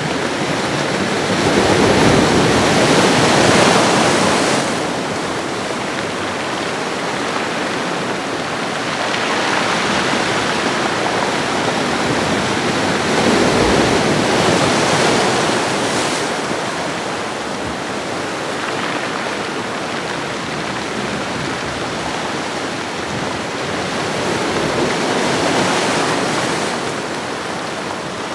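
Ocean waves washing onto a shoreline: a continuous wash of surf that swells and eases every several seconds as each wave breaks and runs up the beach.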